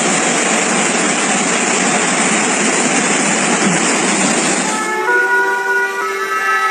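A loud, steady rushing noise that cuts off about two-thirds of the way in. An emergency vehicle's siren then sounds, its tones jumping between pitches.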